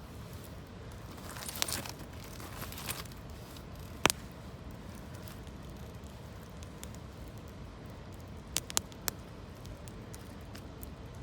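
Campfire of gathered branches and leaves burning, with occasional sharp pops: one about four seconds in and three in quick succession near the end. A brief rustle comes near the start, over a steady background hiss.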